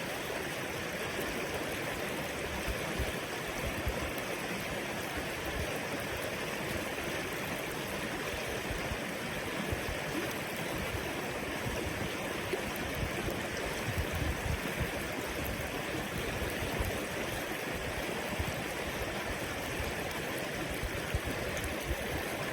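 A river flowing, a steady rushing of water.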